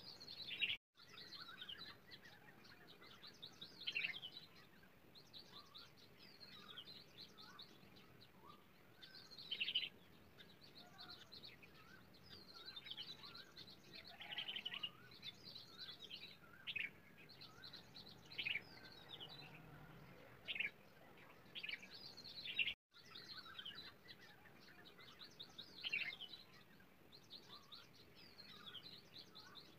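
Birds chirping and twittering, with many short calls and quick trills overlapping throughout. The sound cuts out for an instant twice.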